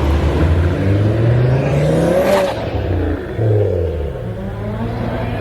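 Car engine revving hard as it accelerates off the line in a drag race. The pitch climbs, drops at a gear change about two and a half seconds in, then climbs again.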